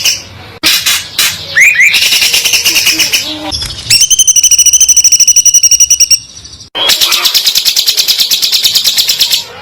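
A songbird singing fast, high-pitched song made of runs of quickly repeated notes. An even, rapid trill comes in the middle, then after a brief pause another fast trill runs until just before the end.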